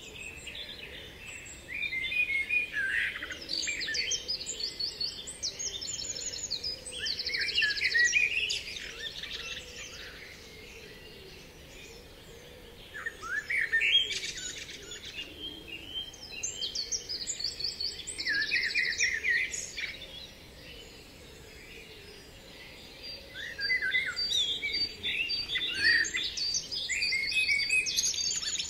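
Birdsong: chirps and quick trills coming in bouts of several seconds, broken by short quieter lulls.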